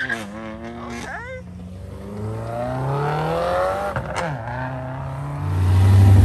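Car engines revving and rising in pitch as cars accelerate along the road. Near the end a deep, loud engine sound sets in close by: a black Chevrolet Camaro running right next to the microphone.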